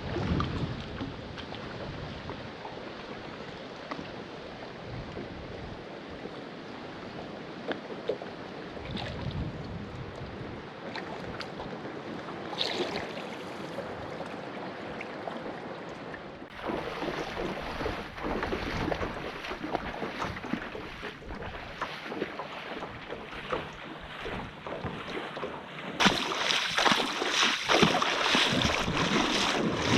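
Steady rushing of water with wind on the microphone. It gets louder in sudden steps about halfway through and again near the end.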